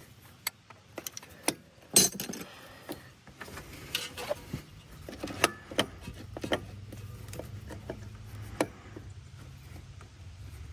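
Metal hand tools and carburetor parts clinking and knocking in irregular sharp clicks while an ATV carburetor and its throttle cable are being taken off, the loudest knock about two seconds in. A faint low steady hum runs underneath from a few seconds in.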